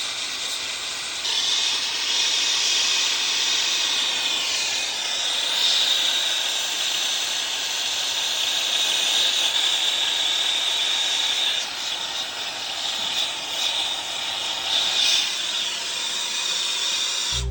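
Brazing torch flame hissing steadily while copper refrigerant line-set joints are brazed; it gets a little louder about a second in.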